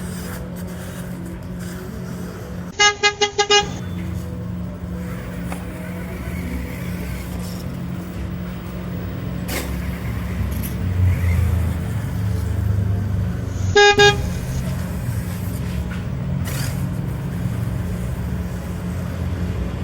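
Short horn toots with a clear pitch: four quick beeps about three seconds in, then two more near fourteen seconds, over a steady low hum.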